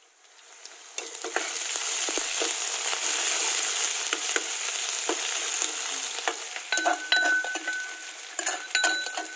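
Chopped onion and spices tipped into smoking-hot oil in a thin kadhai, sizzling hard from about a second in and easing off as a steel ladle stirs. Near the end the ladle scrapes and clinks against a metal bowl, with short squeaky scrapes.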